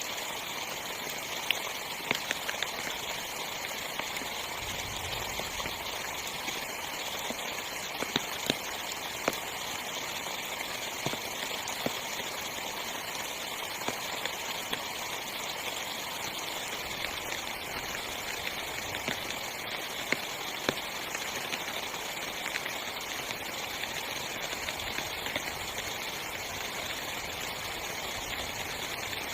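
Heavy rain falling on a small tent's fabric: a steady hiss of rainfall with scattered louder single drop hits.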